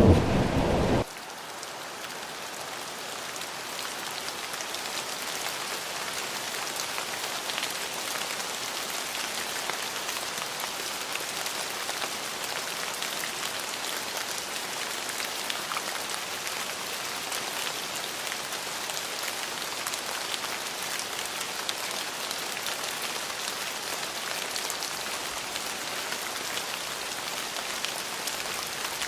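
Steady rain falling, an even hiss with scattered individual drops. A loud rumble of thunder fills the first second and then cuts off abruptly.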